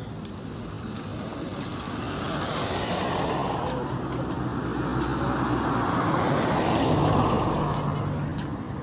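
Road traffic: motor vehicles passing close, engine hum and tyre roar swelling about three seconds in and again, louder, about seven seconds in, then easing.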